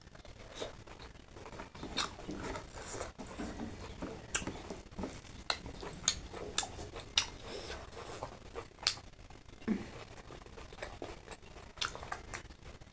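A person eating close to the microphone: irregular sharp smacks and clicks of chewing and handling food, a few a second at times.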